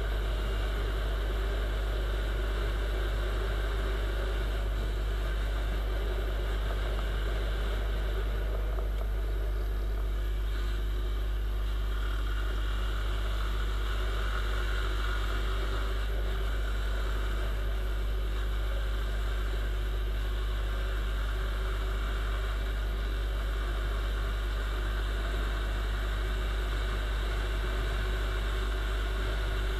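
Viper 150 motorcycle's single-cylinder four-stroke engine running at a steady cruise in fifth gear, heard from the rider's seat. The sound stays even throughout, with no revving or gear changes.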